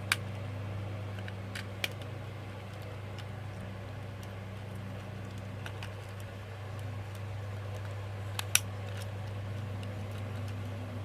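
A few sharp clicks of hard plastic toy parts being handled and fitted together: one at the start, one about two seconds in, and the loudest near the end. A steady low hum runs underneath.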